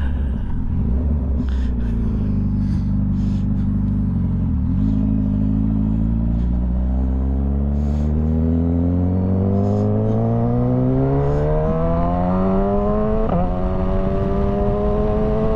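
Motorcycle engine under way, holding steady revs at first, then pulling hard with the pitch climbing steadily from about five seconds in. Near the end there is a brief break and a small drop in pitch as it shifts up a gear, then the revs climb again.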